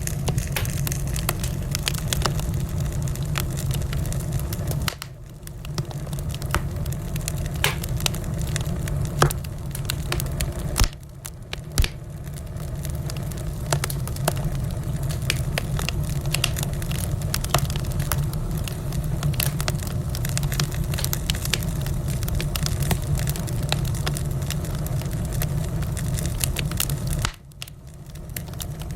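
Wood fire crackling in a fireplace: scattered sharp pops and snaps over a steady low rumble of the flames. The rumble briefly drops out three times.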